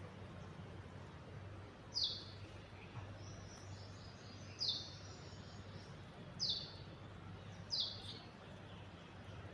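A small bird calling: four short, sharp notes, each sliding quickly downward in pitch, spaced a second or two apart, over a low steady hum.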